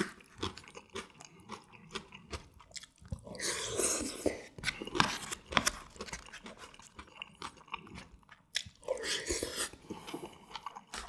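Close-miked chewing of a mouthful of ganjjajang (black-bean-sauce noodles and diced sauce), made of many small clicks, with two longer, noisier stretches about three and a half and nine seconds in.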